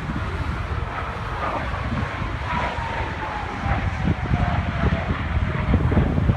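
Jet aircraft flying past, its engine whine falling steadily in pitch as it goes by, over a low rumble of wind on the microphone.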